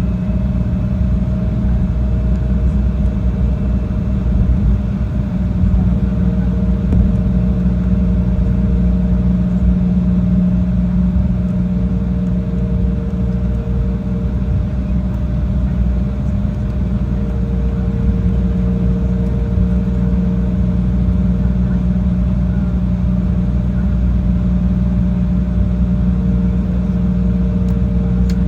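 Steady drone of a jet airliner heard from inside the cabin: a loud low rumble of engine and airflow noise with a faint, even whine on top, holding level throughout.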